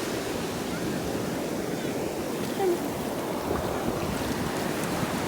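Ocean surf washing steadily in the shallows, with wind buffeting the microphone.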